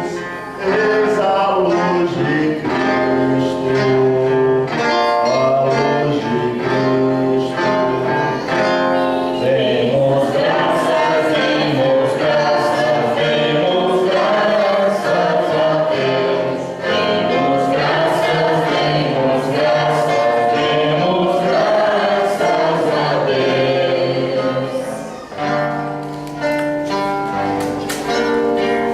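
Congregation or choir singing a hymn with instrumental accompaniment, possibly guitar. The music runs steadily, with a brief dip about 25 seconds in.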